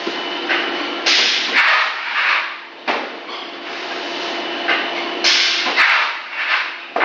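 Extruder machine running through a repeating cycle: a sharp clack about every four seconds, a couple of seconds later a loud burst of hissing, all over a steady hum.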